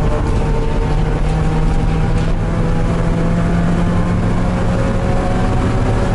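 In-cabin sound of a Porsche 968 race car's four-cylinder engine pulling at speed on track, its pitch rising slowly as the car accelerates in gear, over constant road and cabin rumble.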